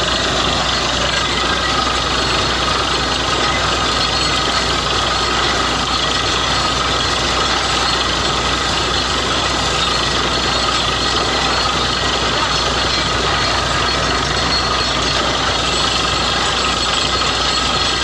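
Borewell drilling rig running: a loud, steady mechanical noise that holds without a break.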